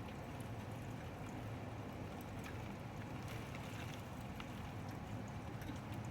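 Typhoon wind blowing steadily with a low rumble, with scattered sharp ticks of rain striking through it.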